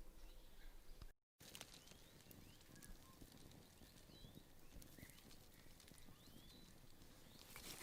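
Faint outdoor ambience with a few short bird chirps scattered through it and some faint clicks. The sound cuts out completely for a moment about a second in.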